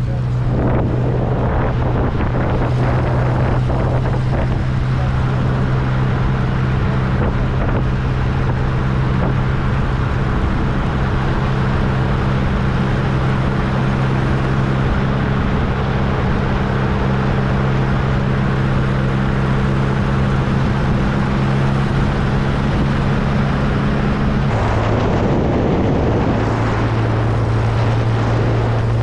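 1275cc MG Midget's four-cylinder engine running at a steady cruise, with wind noise on the microphone of the open-top car. About 24 seconds in, the engine note drops away, then comes back a little lower.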